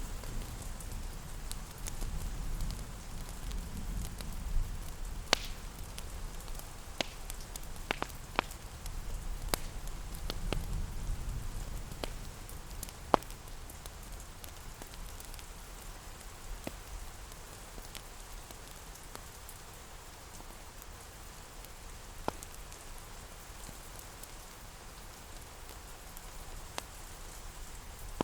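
Steady rain hiss mixed with a fireplace crackling, with scattered sharp pops that are most frequent in the first half. A low rumble underneath eases off about twelve seconds in.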